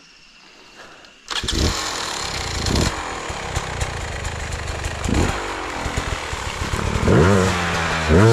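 Dirt bike engine revving hard, cutting in abruptly about a second in and rising in pitch near the end.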